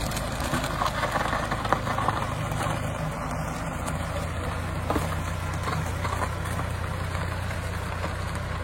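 Motor vehicle engine running steadily, with a low hum and light rattles over it.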